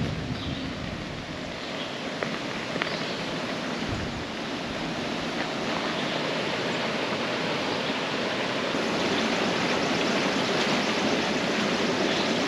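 Steady rushing noise of riding an Inmotion V9 electric unicycle: wind over the microphone and the tyre rolling along the campground road, growing a little louder from about six seconds in. A couple of faint clicks come about two and three seconds in.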